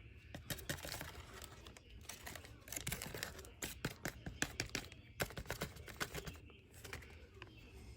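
Irregular clicking, tapping and rustling of hands handling small fuel-system parts and hose.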